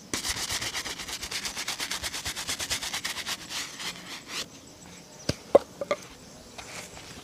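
Shoe being rubbed down in rapid back-and-forth strokes during a shoe shine, a fast scratchy rhythm that stops about four seconds in. A few sharp knocks follow about five and a half seconds in.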